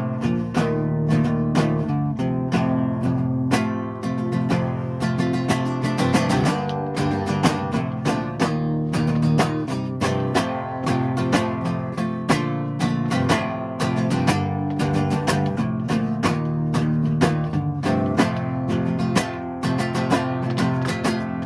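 Acoustic guitar strummed in steady chords, an instrumental passage between sung verses.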